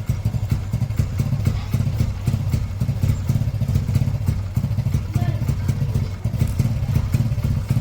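Hero Splendor Pro motorcycle's single-cylinder four-stroke engine running steadily at a low, even speed, a fast low putter, after an engine service.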